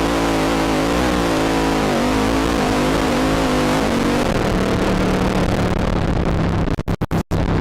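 Quad ATV engine revving with a wavering pitch, then settling to a steadier, lower note about halfway through, over a constant rushing hiss. The sound cuts out several times in quick succession near the end.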